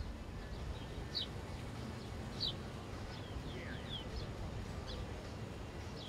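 Small birds chirping outdoors: short, high, falling chirps about once a second, one with a lower downward slide near the middle, over a steady low background rumble.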